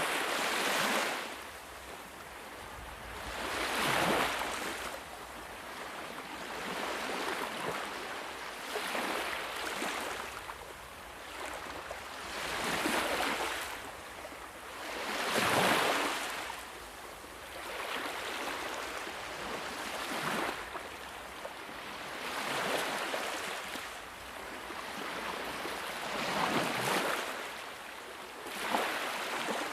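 Sea waves washing onto a shore, a swelling and fading rush of surf every few seconds, with the loudest surge about halfway through.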